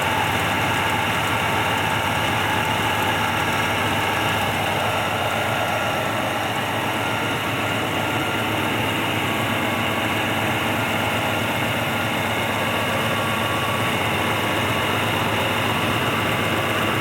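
1967 Pontiac ambulance's V8 engine idling steadily, with an exhaust leak somewhere underneath that the owner points out.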